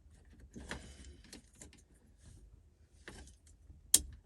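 Handling of a removed car radio unit and its wiring plugs: scattered rustles and light clicks of plastic and connectors, with one sharp click near the end.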